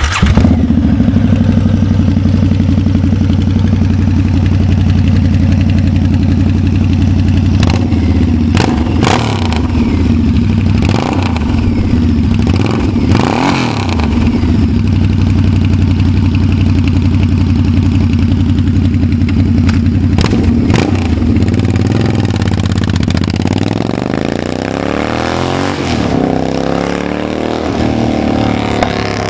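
Harley-Davidson V-Rod's V-twin running hard through a Toxic Double Down 2-into-2 dual-sided aftermarket exhaust, a loud deep exhaust note. There are a few sharp cracks in the middle, and the engine pitch sweeps up and down near the end.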